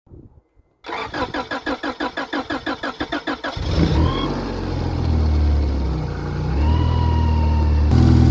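Honda car engine cranked by the starter, about six pulses a second for roughly three seconds, then catching and revving up before settling into a steady run that grows louder near the end. This is a cold start after the car has sat all winter in the snow.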